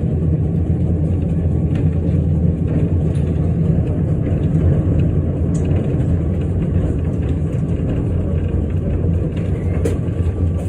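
Steady low rumble inside a city tram's cabin, the running noise of the tram, with a few faint clicks.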